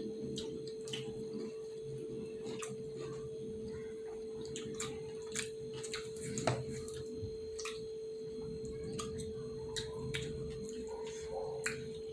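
People chewing and smacking their lips while eating momo dumplings: scattered short wet clicks and smacks. A steady hum runs underneath.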